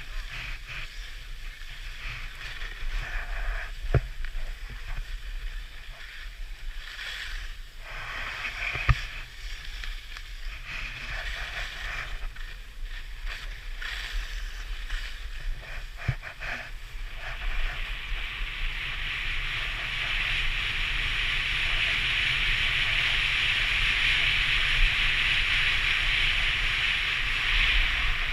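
Skis hissing and scraping over groomed snow, with a low wind rumble on the microphone and a few sharp clicks. About two-thirds of the way through, the ski hiss turns steady and louder.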